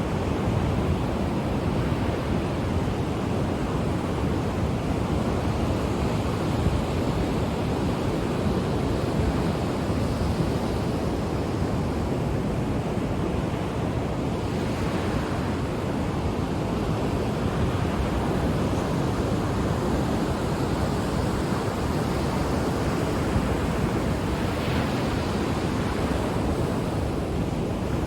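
Ocean surf washing on a shore: a steady rush of breaking waves, with the wash swelling about halfway through and again near the end.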